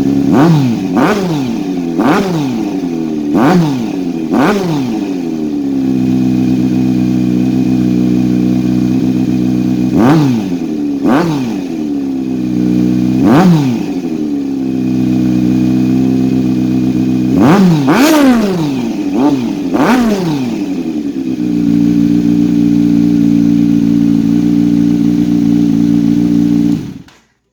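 2022 Kawasaki Z900's inline-four engine idling through a KO Lightning slip-on exhaust with the breadbox removed and a link pipe on the stock header, blipped about a dozen times in three bursts of sharp revs that fall straight back to idle. The engine cuts off abruptly near the end.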